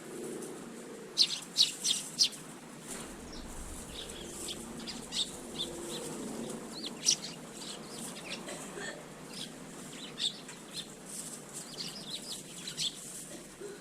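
Eurasian tree sparrows chirping: many short, sharp chirps, with four loud ones in quick succession about a second in and more scattered through the rest.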